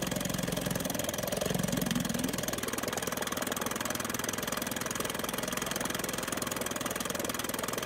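1956 Johnson 5.5 hp CD-13 two-cylinder two-stroke outboard running quietly and steadily on a test wheel, its carburetor freshly dialed in.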